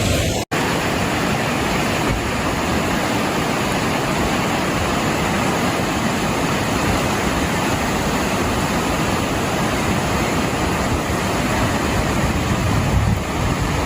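Steady, unbroken rushing noise of water, after a brief dropout about half a second in.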